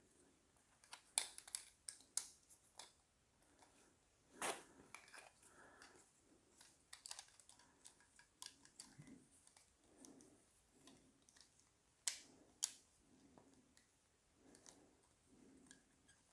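Plastic LEGO pieces being handled and snapped together, scattered sharp clicks with soft fiddling noise between them, a pair of louder clicks about twelve seconds in.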